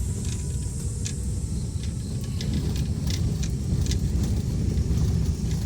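Car driving, a steady low road and engine rumble, with scattered small clicks and rattles.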